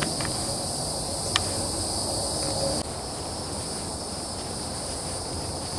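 Insect chorus in the forest: a steady, high-pitched buzzing in several layers, part of it dropping away about three seconds in. A single sharp click sounds just over a second in.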